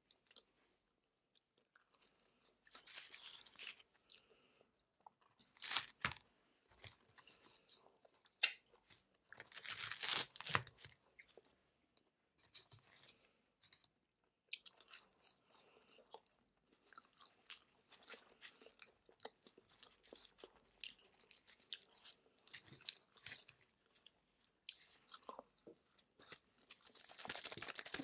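Close-miked chewing and biting of pizza crust, with sharp crunches of crisp crust every few seconds. Near the end a candy bar's foil wrapper starts crinkling.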